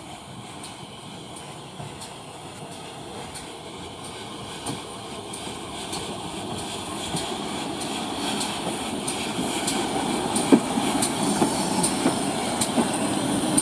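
A train approaching and growing steadily louder. Its wheels click over the rail joints about twice a second, over a rumble, with a sharper click near the end.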